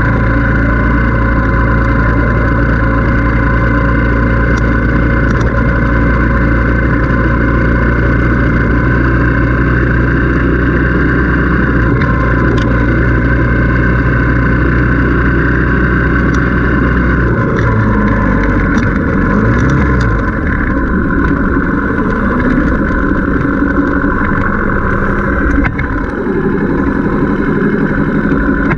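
Motorcycle engine running steadily under way with a deep, even drone. About two-thirds through, the low drone drops away and the engine note rises and falls for several seconds.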